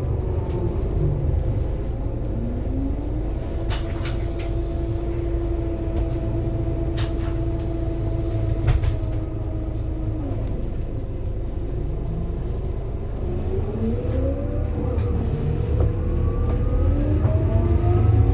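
Scania K230UB city bus's diesel engine and ZF Ecomat automatic gearbox: the revs drop away, then a steady drone is held for several seconds before easing off. Near the end it pulls away again, the pitch climbing in steps as it gains speed.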